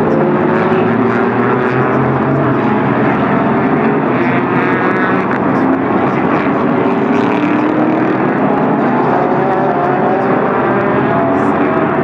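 Sports-car race cars running at speed on the circuit, several engines heard at once, their pitches climbing as they accelerate through the gears, over a continuous wash of noise.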